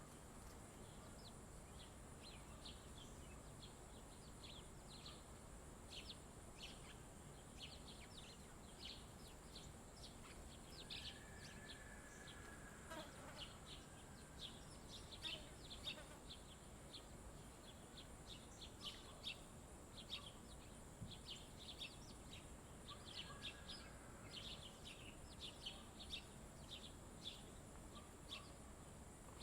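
Small birds at a feeder chirping faintly, many short high chirps in quick succession throughout, with a longer, lower whistled note that falls in pitch twice, near the middle and about three-quarters in. A faint steady high hiss sits underneath.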